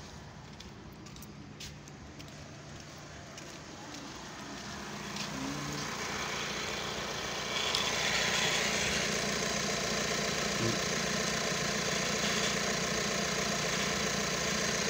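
Audi Q5 TDI diesel engine idling steadily. It grows louder a few seconds in and again about halfway through, then holds.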